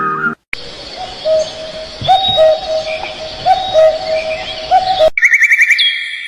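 Birds calling: a low hooting note repeated every second or so under higher chirps. About five seconds in it cuts abruptly to a faster, higher trill with whistled notes.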